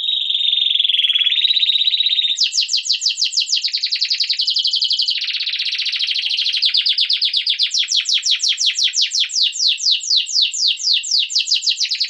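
A songbird singing one long trilled song: first a fast, even trill, then a long run of quick repeated sweeping notes that slows a little near the end.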